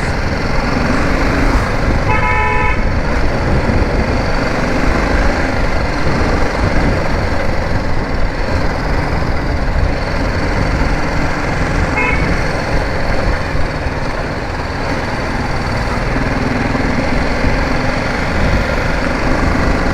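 Steady wind rush and engine noise from a BMW G 310 GS single-cylinder motorcycle under way, heard from a helmet or bike-mounted camera. A vehicle horn toots once, for under a second, about two seconds in.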